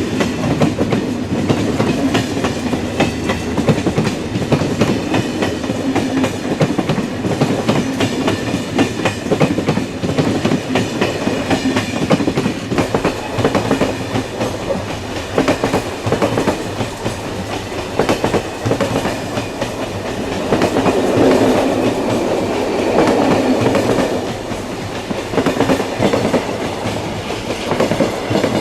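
Passenger train running along the track, its wheels clicking rapidly and continuously over the rails over a steady rumble; it grows louder for a few seconds about two-thirds of the way through.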